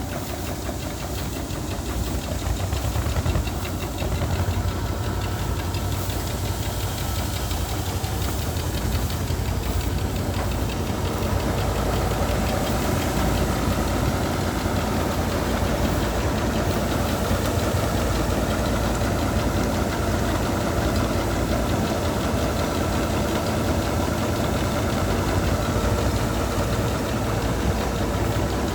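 Bizon Z056 combine harvester's six-cylinder diesel engine running steadily with a low rumble, growing a little louder a few seconds in.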